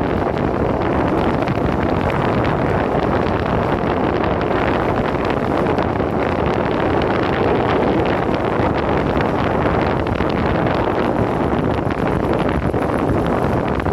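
Steady, loud wind noise buffeting the phone's microphone during a ride on an electric skateboard, with no break or change.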